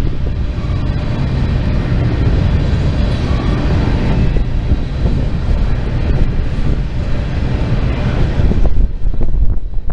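Freight train of covered hopper cars rolling past close by: a steady loud rumble and clatter of steel wheels on the rails.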